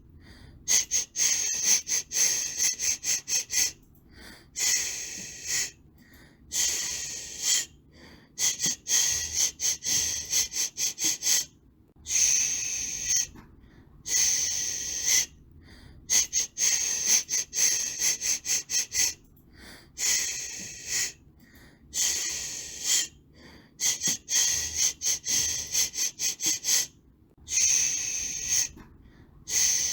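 A person shushing rhythmically to soothe a baby: long 'shhh' hisses alternating with runs of quick short 'shh' pulses, with brief silences between.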